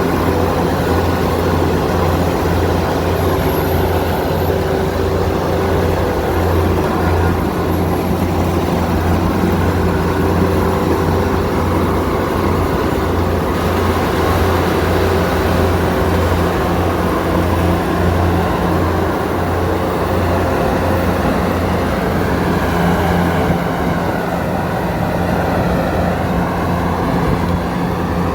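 Kubota DC70 combine harvester's diesel engine running steadily under working load, a continuous low, heavy drone.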